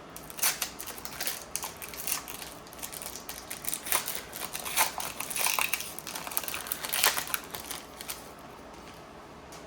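A foil trading-card pack wrapper crinkling and crackling as it is torn open and handled, in a dense run of small crackles that stops about eight seconds in.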